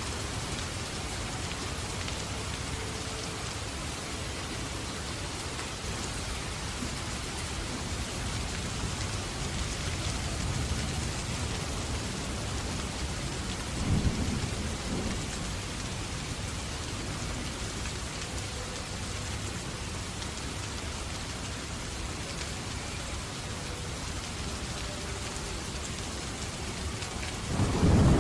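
Steady heavy rain with thunder rumbling: a short roll about halfway through and a louder one building near the end.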